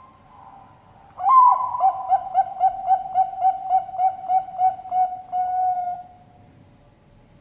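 Bangkok-line zebra dove (perkutut) cooing its full song: an opening note about a second in, then a rapid string of short coos at about four a second, closing on a longer drawn-out note.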